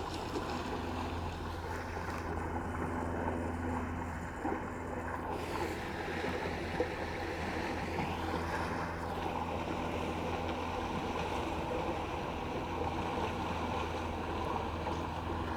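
Steady rush of flowing river water, with wind noise on the microphone.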